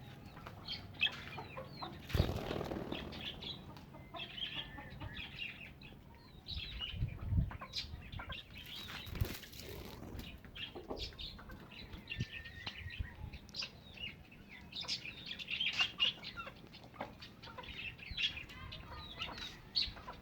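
A yard full of poultry and other birds: chickens clucking and birds chirping throughout, with bursts of wing flapping, the loudest about two seconds in and again around nine seconds.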